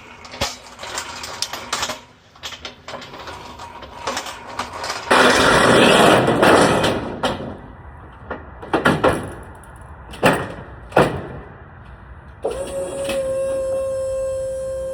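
Metal clanks and knocks with a loud rattling stretch, as loads are moved over a box truck's metal floor. Near the end an electric lift-gate motor starts and runs with a steady whine.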